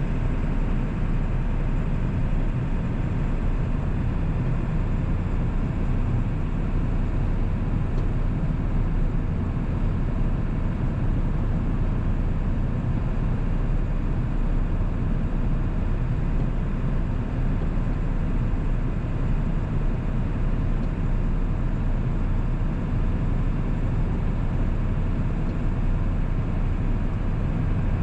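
1997 7.3 L Powerstroke turbodiesel V8 running at a steady cruise while driving, a constant low rumble with road noise and no rise or fall in pitch.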